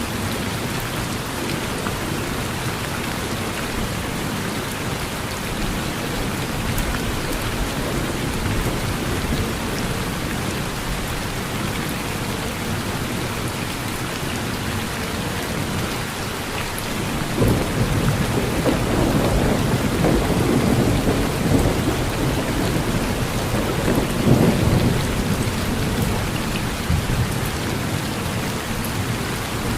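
Steady rain falling on a porch, with a long low rumble of thunder rising a little past halfway and fading out several seconds later.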